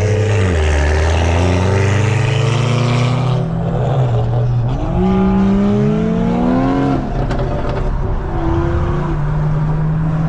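Turbocharged straight-six car engine under hard acceleration. About five seconds in, its pitch climbs steeply for two seconds and then drops suddenly at a gear change, followed by steadier running.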